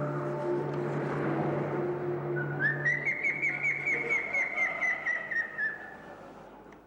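Recorded bird call: a buff-throated woodcreeper's laughing song, a rising note that breaks into a fast run of clear whistled notes, about four or five a second, slowly falling in pitch and fading away. A low steady drone runs under it and stops about four seconds in.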